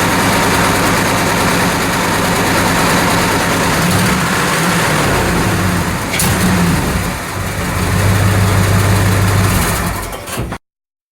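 1956 Ford 600 tractor's four-cylinder gasoline engine running, its note shifting up and down partway through as the engine speed changes, then steadier and a little louder before the sound cuts off abruptly.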